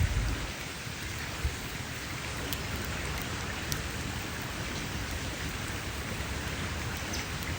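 Wood campfire burning: a steady hiss with scattered sharp crackles and pops, and a low thud right at the start and another about a second and a half in.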